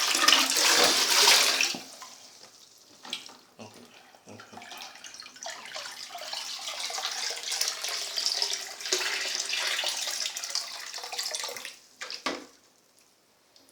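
Water running from a tap, in two spells: a loud rush for the first couple of seconds, then a longer run from about five to twelve seconds, followed by a short knock.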